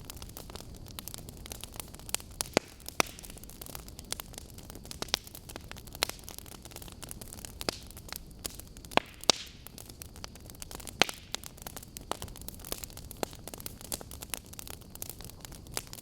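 Wood fire burning: logs crackling with irregular sharp pops and snaps over a steady hiss, a few louder snaps standing out.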